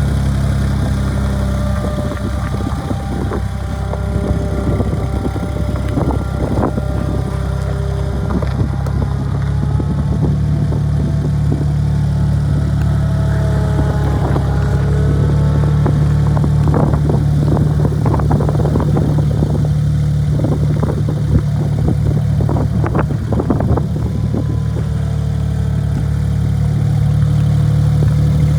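A 1993 Gehl 3410 skid steer loader's engine running steadily, with whining tones that shift up and down. Scattered knocks and metallic clanks come and go, most of them in the middle and latter part.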